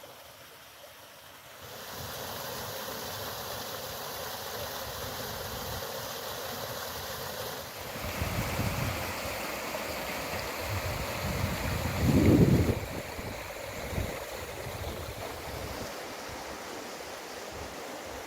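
Strong wind rushing over open hillside, rising sharply about two seconds in, with gusts buffeting the microphone in deep rumbles, loudest a little past the middle.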